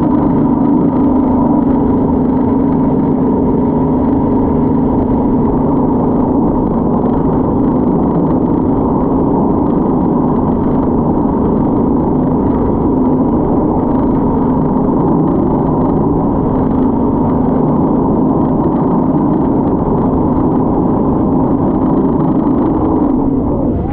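Motorboat engine running at a steady speed, a constant loud drone.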